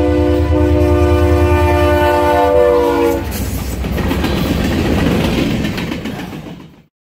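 Norfolk Southern freight train passing: the locomotive's air horn sounds a loud chord over a deep engine rumble, then stops about three seconds in. The wheels and cars rattle over the rails until the sound cuts off suddenly near the end.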